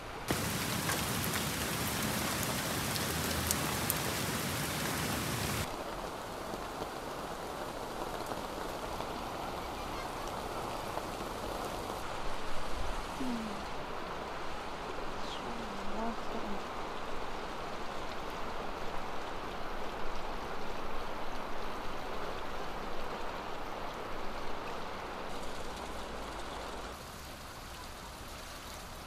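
Rain falling hard, cutting off abruptly after about five seconds. Then water pours steadily from a bamboo spout and splashes over bamboo and hands rinsing mushrooms, quieter than the rain.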